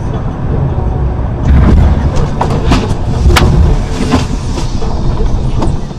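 Vehicle noise: a low rumble that gets much louder about a second and a half in, with a series of sharp knocks and bangs scattered over the next four seconds.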